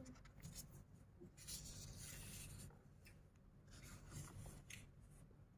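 Near silence with faint scratching or rubbing: several short, soft strokes, with a low room hum beneath.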